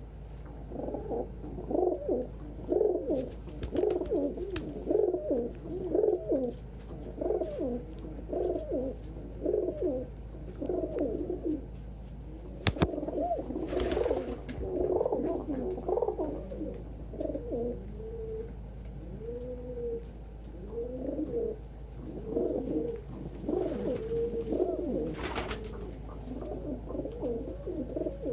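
Domestic pigeons cooing over and over in overlapping phrases, with faint high chirps now and then and a sharp click about 13 seconds in.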